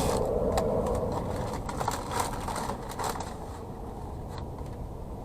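Takeout food and its packaging being handled: rustling, with a few short light knocks in the first three seconds, over a steady low rumble.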